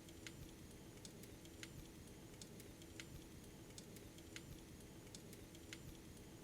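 Faint fireplace crackling: irregular sharp pops and clicks, several a second, over a steady low hum.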